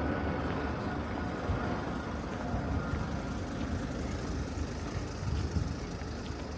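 Distant vehicle engine noise over a steady outdoor din with low rumble, slowly fading.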